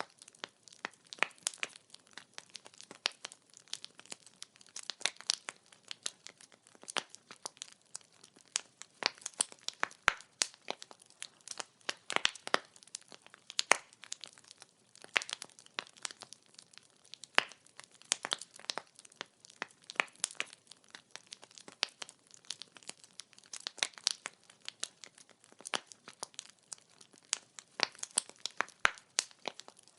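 Burning firewood crackling: a steady stream of irregular sharp pops and snaps, several a second, some louder than others, over a faint hiss.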